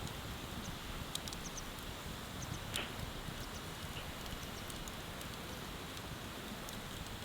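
Wood bonfire crackling: scattered sharp pops and ticks, one louder pop about three seconds in, over a steady rushing background.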